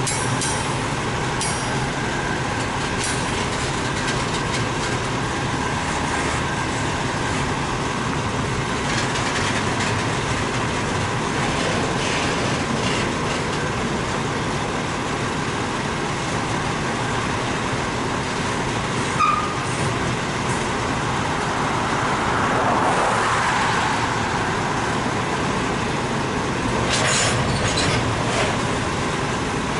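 Double-stack container well cars of a BNSF intermodal freight train rolling slowly past: a steady rumble of steel wheels on rail, with scattered clicks and knocks from the cars and a brief squeak about two-thirds of the way through.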